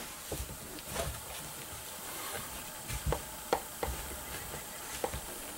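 Faint, scattered clicks and light handling knocks, about six in all, over a steady background hiss.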